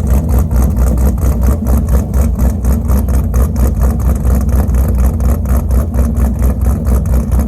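A 2009 Pontiac G8 GT's V8, stroked to 6.6 litres and fitted with a BTR Stage 3 camshaft, idling loudly and steadily with a rhythmic, pulsing lope.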